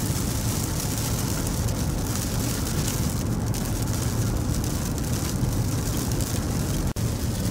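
Steady road and engine noise inside a moving car's cabin, with tyres running on a wet road in light rain. The sound drops out briefly near the end.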